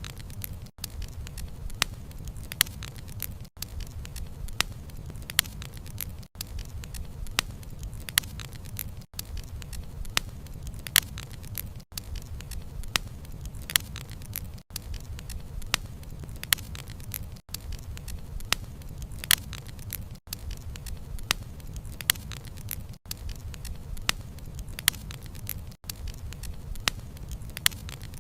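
Wood fire (bonfire) crackling, with frequent sharp pops and snaps of burning wood over a low steady rumble of flame. Brief dips in the sound come about every three seconds.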